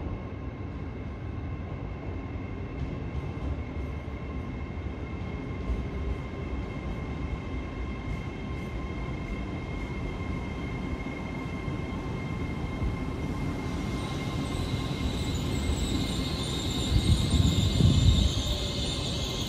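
LNER Class 801 Azuma electric train running slowly into the platform, a steady rumble with a thin whine throughout. About two-thirds of the way in, higher whining and squealing tones build, and near the end it gets loudest as the train draws alongside.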